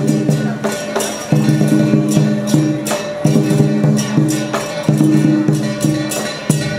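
Taiwanese lion dance percussion ensemble playing: a steady beat with repeated cymbal crashes over ringing gong tones.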